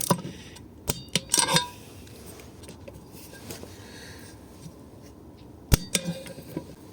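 Sharp metallic clicks and clinks of a torque wrench and hand tools on the engine's bolts as they are tightened in steps, a few close together in the first second and a half and a single sharp click near the end.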